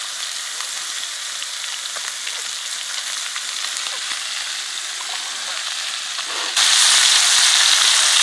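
Catfish fillets frying in butter and oil in a pan over a campfire: a steady sizzle that turns much louder about six and a half seconds in.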